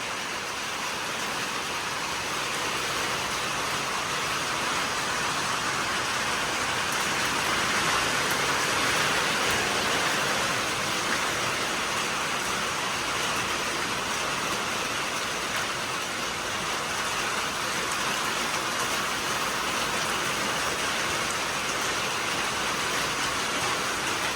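Heavy rain falling steadily, a dense even hiss that swells a little about eight seconds in.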